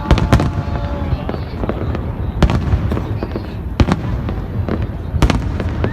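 Fireworks going off: several sharp bangs over a continuous low rumble.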